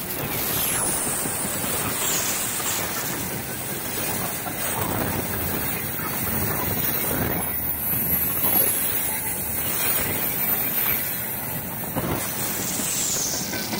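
Container flatcars of a freight train rolling past close by at speed: a steady rush of steel wheels on rail that swells every couple of seconds as each car's wheelsets go by.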